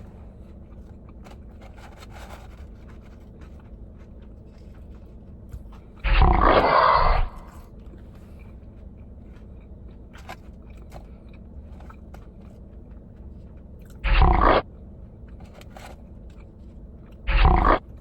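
Close-up eating noises: small crunches and clicks of chewing fried chicken fingers and fries. Three loud bursts of noise cut in, about six seconds in, about fourteen seconds in and near the end.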